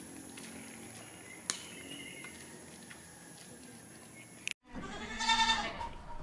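A Nubian goat bleats once, a wavering call about a second long, near the end. Before it there is only a faint steady background with a thin high tone and one light tick.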